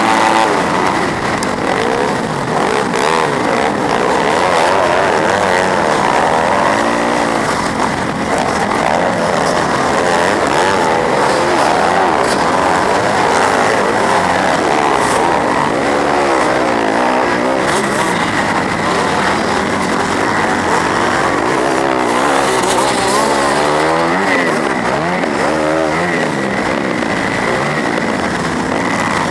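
250cc four-stroke motocross bike engine heard onboard, revving up and falling back again and again as the rider works the throttle and gears.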